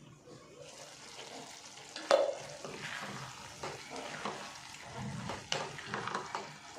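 A spoon stirring and scraping vegetable bhaji in a pan over the heat, with a sizzling hiss that comes in under a second in. The spoon knocks sharply against the pan about two seconds in and again about five and a half seconds in.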